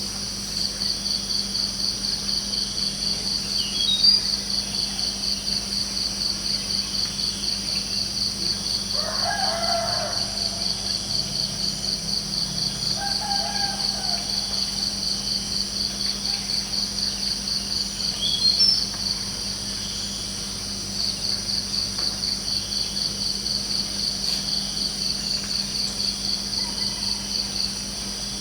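Crickets chirring in a steady, fast-pulsing high trill. Two short rising bird chirps come about 4 and 18 seconds in, and a louder bird call about 9 seconds in, with a fainter one shortly after.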